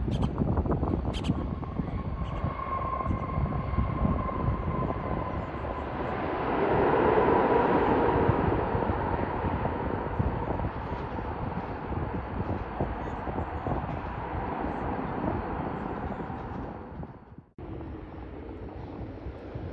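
Jet airliner's engines passing: a steady whine over a broad rush that swells about seven seconds in and then slowly fades, with wind rumbling on the microphone. The sound cuts off abruptly near the end.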